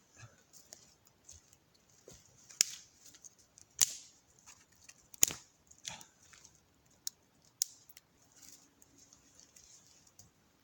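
Campfire of wet wood burning, with scattered sharp crackles and pops, about half a dozen loud ones, irregularly spaced.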